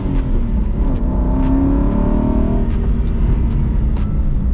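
Aston Martin Vantage engine heard from inside the cabin, rising in pitch as the car accelerates for about two and a half seconds, then settling to a steady low rumble with road noise.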